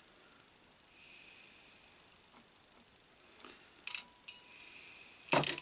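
Soft breaths through the nose, in two hissy stretches, with a sharp click a little before four seconds and a louder short sound near the end, as wires are worked into place.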